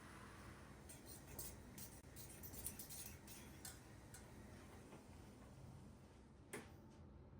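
Faint light clicks and taps, a quick run of them in the first few seconds and one sharper knock near the end, over a low steady hum.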